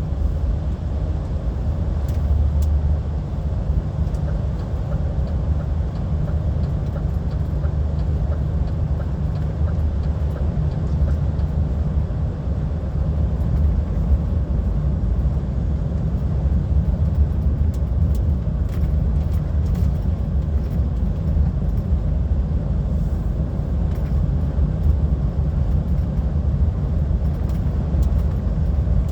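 Steady low drone of a lorry's diesel engine and road noise, heard from inside the HGV cab while driving.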